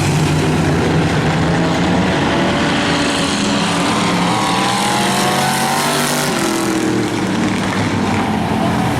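Demo race cars running hard around the oval, several engines at once. Between about four and seven seconds in, one engine's pitch rises and then falls as a car passes close.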